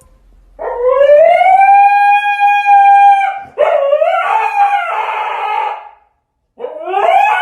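A dog howling: three long howls, each sliding up in pitch as it starts. The first is held steady for nearly three seconds, the second wavers, and the third begins near the end and carries on.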